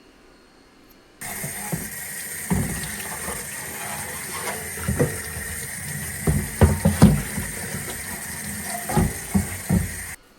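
Water running from a tap into a sink, with irregular knocks and clunks of something handled in it. It starts about a second in and cuts off near the end.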